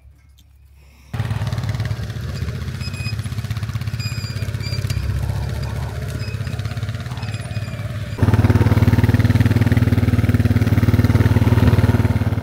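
An engine running steadily at an even speed. It starts abruptly about a second in and becomes louder at another abrupt step about eight seconds in.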